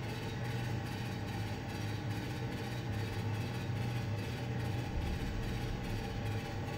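Steady low rumble of a train engine sound effect, with a faint even pulse about two or three times a second.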